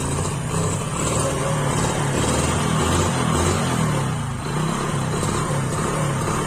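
Hero HF Deluxe motorcycle's small single-cylinder four-stroke engine running after being started, its pitch wavering up and down slightly.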